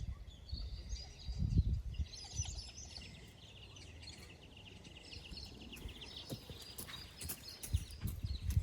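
Wild birds calling, with a fast, high trill of repeated notes in the middle, and a few low thumps near the start and near the end.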